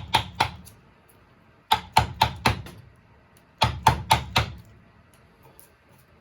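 Sharp knocks of wood-carving strikes on wood, coming in quick runs of about five, three runs roughly two seconds apart.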